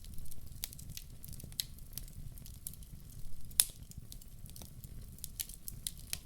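Wood fire in a fireplace crackling, with irregular sharp pops over a steady low rumble; the loudest pop comes a little past halfway.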